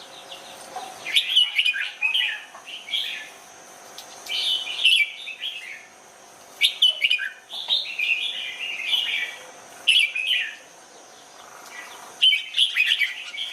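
Red-whiskered bulbul singing: about five short, quick phrases of warbled whistled notes, spaced a couple of seconds apart.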